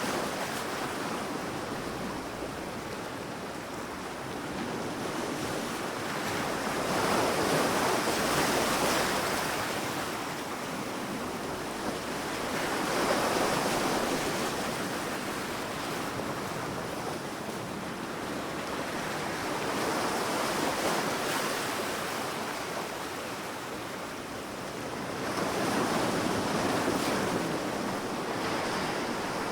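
Sea waves breaking and washing up onto a sandy beach, swelling and easing in slow surges every five or six seconds.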